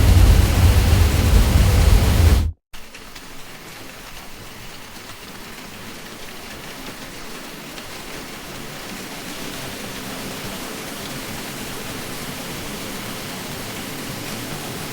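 Steady fan drone with a deep rumble that cuts off abruptly about two and a half seconds in. After a split second of silence, a quieter, thinner hiss without the rumble comes in and slowly grows louder.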